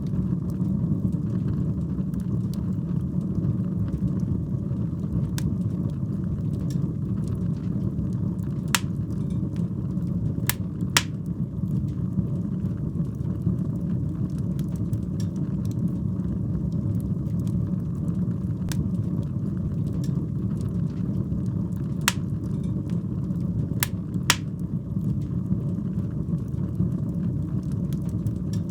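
Wood fire burning in a fireplace: a steady low rumble of the flames with sharp crackles and pops, a handful of louder ones scattered through.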